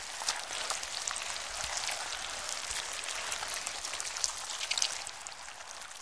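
Seawater foam fizzing on wet sand: a steady hiss with many small crackles and pops.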